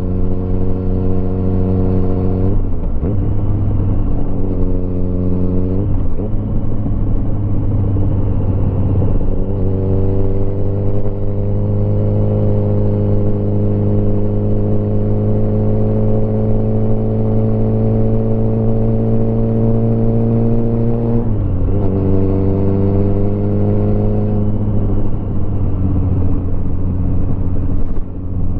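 Motorcycle engine running under way, its note holding or slowly climbing, then breaking off and dropping several times as the rider changes gear and rolls back on the throttle, with steady road and wind noise underneath.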